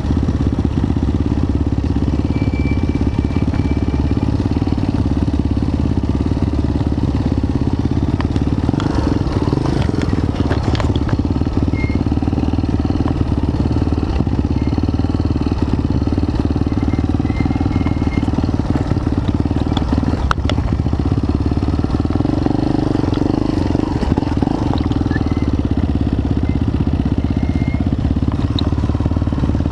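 Motorcycle engine running steadily, a constant low drone with a few faint clicks and knocks over it.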